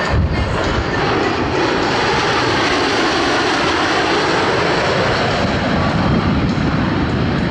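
Jet noise from Blue Angels F/A-18 Super Hornets in flight: a loud, steady rush of engine noise with deep low rumble, and a brief heavier thump right at the start.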